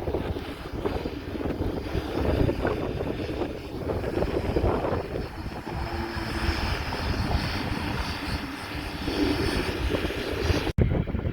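Propeller airplane engine droning, with wind buffeting the microphone; the sound cuts out for an instant near the end.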